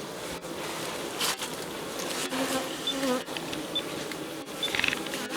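Honeybees buzzing in a steady swarm hum at a woven hive, with single bees passing close to the microphone, their pitch bending as they go by; the loudest buzz comes near the end.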